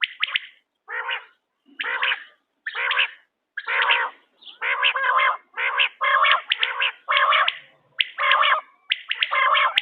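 Quail calls repeating, about a dozen short calls in quick succession, each a quick run of notes, with clean gaps between them.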